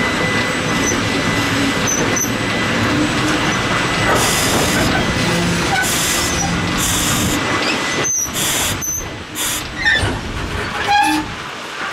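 Electric locomotive and loaded hopper wagons rolling slowly past on 900 mm narrow-gauge track: a steady rumble and grind of steel wheels on rail, with several short bursts of hiss in the second half.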